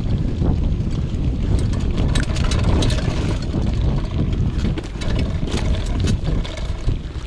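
Wind buffeting the microphone while riding a rigid vintage mountain bike along a trail, with a steady low rumble and frequent small knocks and rattles from the bike.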